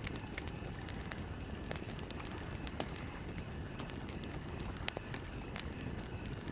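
Campfire burning with a steady low roar of flames and scattered crackles and pops of burning wood, one sharper pop a little before the end.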